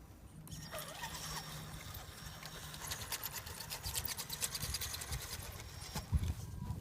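Small electric RC rock crawler driving, its motor giving a steady low hum, then a rapid run of clicks and clatter as it crawls.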